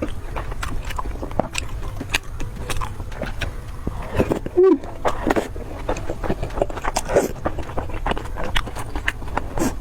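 A person eating: irregular crunching and biting clicks over a steady low rumble, with a short voiced hum about halfway through.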